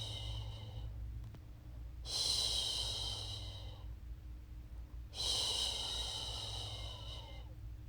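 A woman's voice shushing, long hissing 'shhh' sounds repeated about every three seconds, as a soothing sleep sound for a baby. One shush ends about a second in, and two more follow, each lasting about two seconds. A low steady hum runs underneath.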